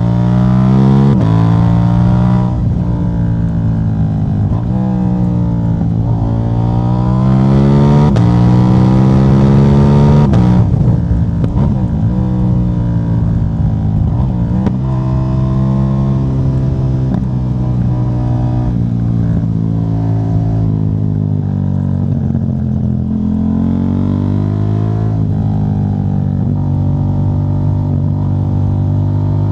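KTM 790 Duke's parallel-twin engine, its catalytic converter removed, pulling through the gears. The revs climb and drop sharply about four times. About ten seconds in they fall away, and the engine runs on at a steadier, lower pitch with small rises and falls.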